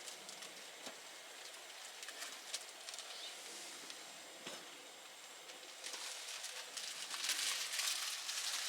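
Wood fire crackling, with scattered sharp pops over a steady hiss that grows louder and busier about six seconds in.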